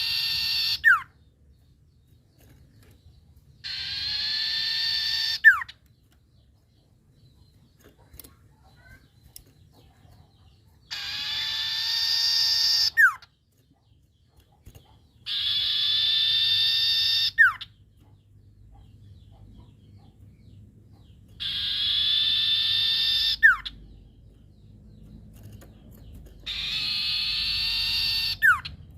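Owl known locally as a sirtu, calling repeatedly. Its harsh, raspy calls last about two seconds each, come roughly every five seconds, and each ends in a short, sharp falling note.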